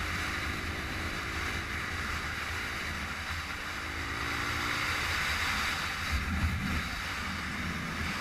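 Steady wind rush over the microphone with a low rumble, and a faint engine note that rises and falls twice underneath.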